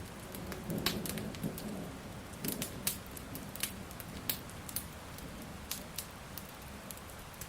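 Wood fire crackling with irregular sharp pops, over the steady hiss of falling rain.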